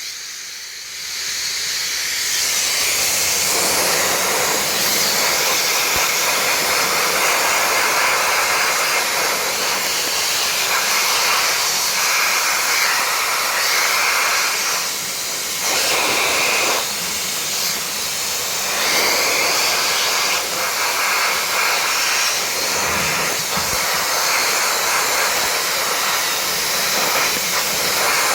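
Sandblaster blasting rust off a metal car part: a steady, loud hiss of air and abrasive, easing off briefly a couple of times around halfway.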